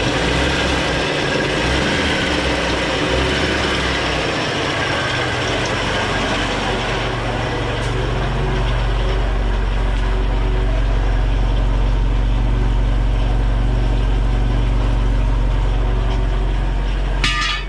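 1969 Volvo 142's four-cylinder engine idling just after a restart, exhaust running through a beer-can patch on the muffler. The low hum grows steadier and stronger about halfway through, and a short sharp sound comes near the end.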